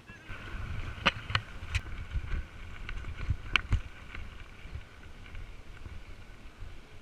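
Riding a bicycle along a dirt trail: rumble from wind on the microphone and the bike over the ground, with a few sharp clicks and rattles in the first half.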